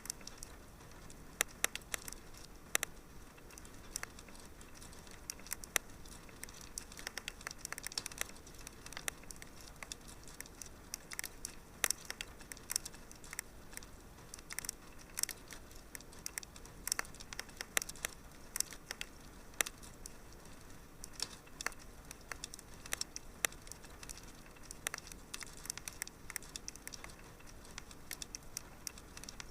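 Wood fire burning in a fireplace, crackling and popping in irregular sharp clicks, several a second, over a low steady hiss.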